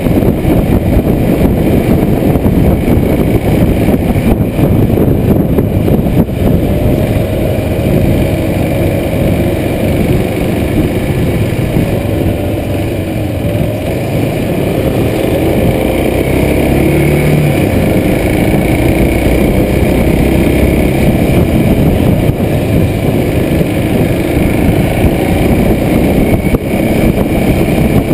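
Kawasaki Super Sherpa's 250 cc single-cylinder four-stroke engine pulling the bike along, with loud wind noise on the chest-mounted camera's microphone. The engine note rises and falls as the throttle changes, easing off a little around the middle.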